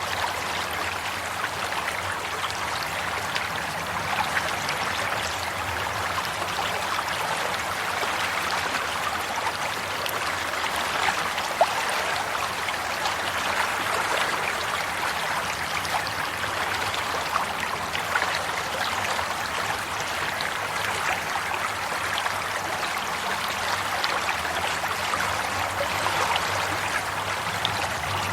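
Water flowing steadily in a stream, a continuous babbling rush with many small splashes and trickles.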